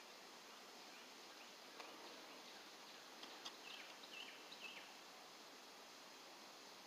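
Faint outdoor ambience with a quick series of short, high bird chirps about halfway through.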